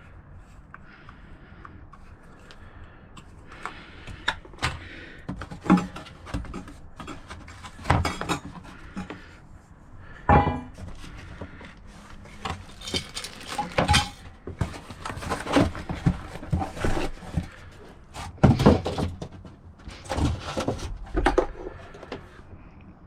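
Irregular clinks and knocks of hard, metal objects being handled, a few sharp strikes every second or two with quieter rattling in between.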